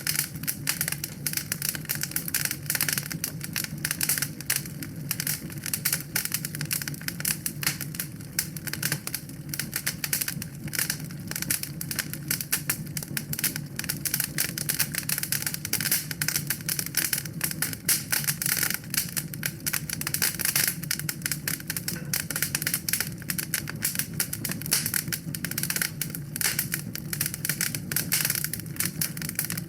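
Wood fire crackling steadily, a dense run of small irregular pops and snaps over a low steady rumble of the burning.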